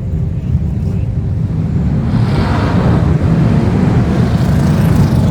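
BriSCA Formula 1 stock cars racing, their V8 engines loud and low, growing louder and brighter from about two seconds in as cars come by.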